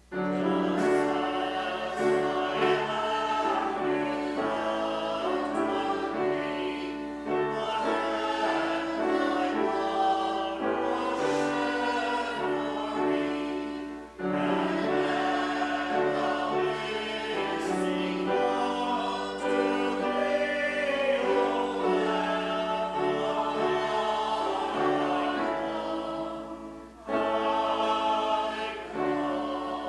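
Congregation singing a closing hymn with keyboard accompaniment, the singing dipping briefly twice between phrases.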